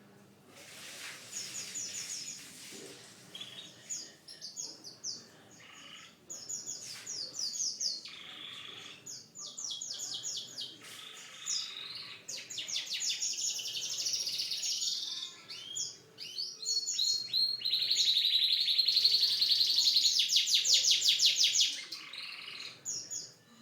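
Domestic canary singing a long song of rapid trills and repeated chirps, swelling into its loudest, fastest rolling trill near the end.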